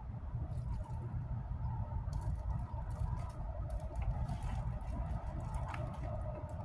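Rustling and light clicks of clothing and a deodorant being handled and applied, over a steady low rumble.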